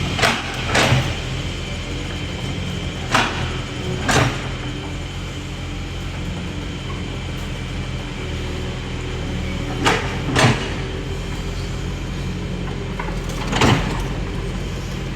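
Diesel engine of heavy earthmoving machinery running steadily. Sharp clanks cut through it seven times, mostly in pairs about half a second to a second apart.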